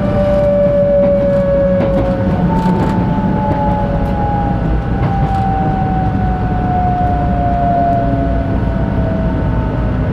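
Shinkansen train running, with its electric motor whine in two tones slowly falling in pitch over a steady low rumble: the train is slowing down.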